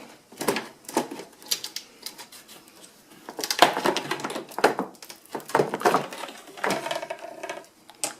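Irregular clicks and knocks as parts of a Flow Hive are handled and opened up. A short patch of steadier sound comes near the end.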